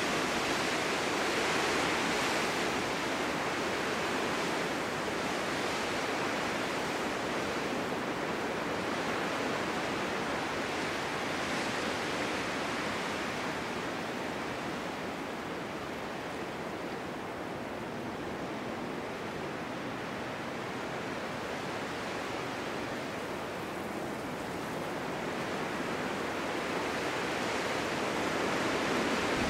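Snowstorm wind rushing through a snow-covered forest in a steady, unbroken roar that eases somewhat in the middle and swells again near the end.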